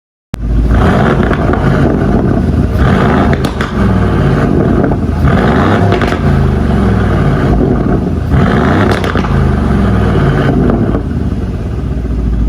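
Aston Martin DB11 Volante's engine revved through its aftermarket variable exhaust, rising and falling in several swells. It starts abruptly and stops suddenly.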